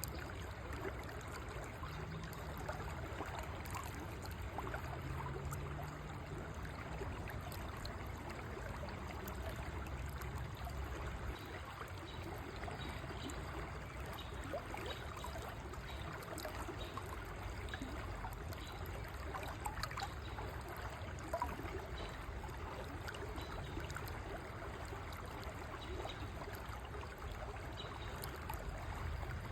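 A river flowing steadily, water rushing and trickling over stones.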